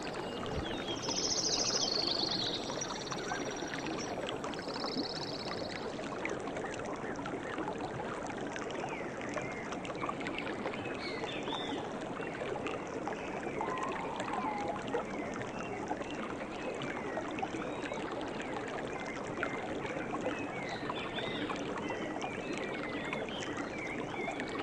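Steady rush of running water, like a stream, with short chirping calls scattered over it and a brief pulsing trill near the start.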